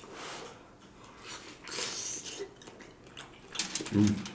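Food and dishes being handled at a table: soft rustling and light clatter, with a brighter rustle about two seconds in and a dull thump near the end.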